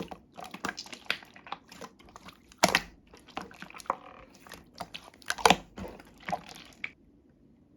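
Slime being squished and pressed by hand: irregular sticky clicks and crackling pops, two of them louder a few seconds apart, stopping near the end.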